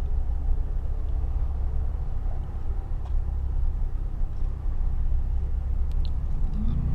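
Infiniti G35 coupe's VQ35DE V6 running through a Z1 touring exhaust, a low steady drone with road rumble while cruising at an even speed. A few steady tones come in near the end.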